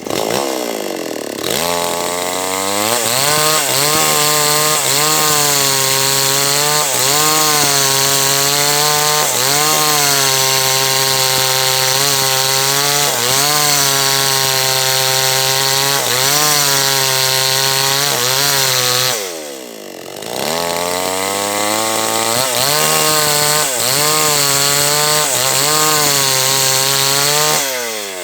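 Small H&L Pro 5800 gasoline chainsaw cutting through a large teak log at full throttle, its pitch sagging and recovering every second or two under the load of the cut. About two-thirds of the way through it drops briefly to idle, then revs back up and goes on cutting.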